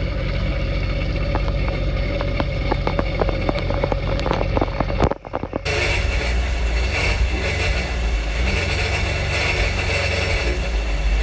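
Sea-Doo Fish Pro jet ski engine idling out of the water with garden-hose flushing water running through it. It sounds normal after its impeller shaft was cleared of wrapped anchor rope and chain. The sound briefly drops out about halfway through, then the steady running resumes.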